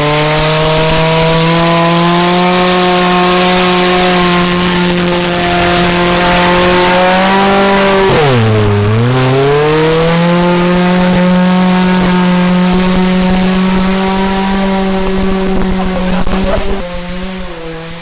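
Ford engine in a 1995 Mazda, with its exhaust cut off, held at high revs under a loud hiss. The revs dip sharply and climb back about halfway through, hold steady again, then ease off near the end.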